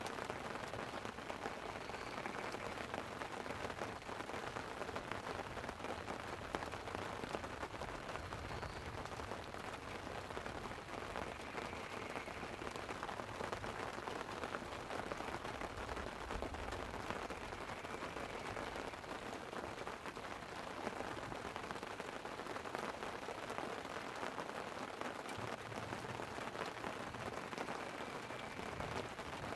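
Light rain pattering on a tent over a steady rushing background, with low rumbles of distant thunder swelling up now and then.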